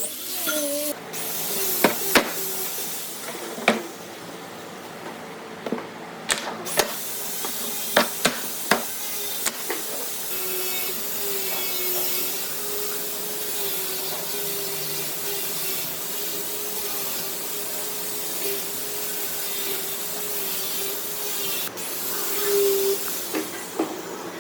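Workshop sounds: several sharp knocks of wood and tools in the first ten seconds, then a power tool running steadily with a hiss and a faint hum.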